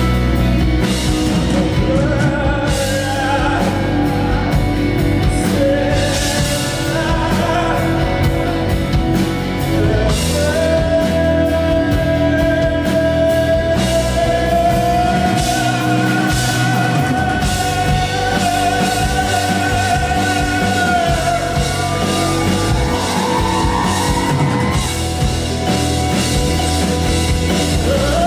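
Live rock band playing, with drums and guitar under a melodic line that holds one long note in the middle of the passage.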